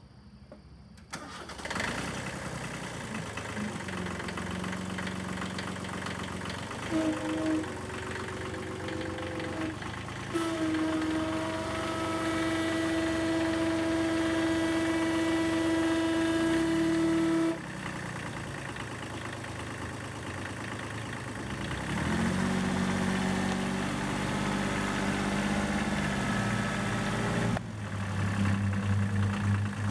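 A motor starting about a second in and then running steadily, its hum jumping abruptly to new pitches several times.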